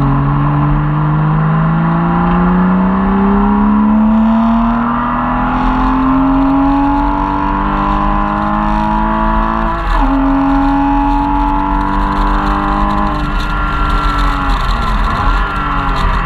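Porsche Cayman S flat-six engine heard from inside the cabin under hard acceleration, revs climbing for about ten seconds in one gear, dropping sharply at an upshift, then holding before the driver lifts off about thirteen seconds in. The revs dip briefly near fifteen seconds and climb again near the end.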